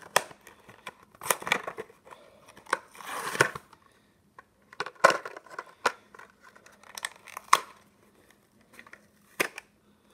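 Toy car packaging being opened by hand: cardboard and plastic tearing and crinkling in irregular scrapes and clicks, with a longer tear about three seconds in.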